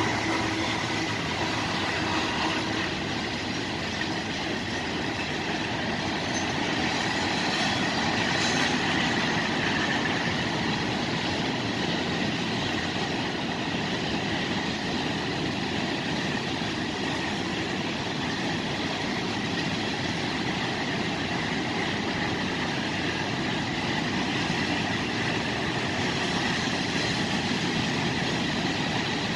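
Freight cars of a passing mixed freight train (covered hoppers and tank cars) rolling steadily over the rails, a continuous even rumble of wheels on track.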